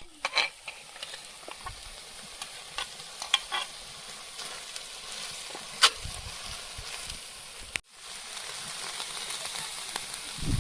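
Vegetables for borscht frying and sizzling steadily in a kazan over the fire, with a utensil clinking against the pot a few times while they are stirred.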